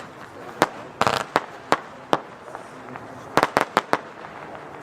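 Jorge Eden F2 consumer firework battery firing: a series of sharp bangs at irregular intervals, with a quick run of four near the end.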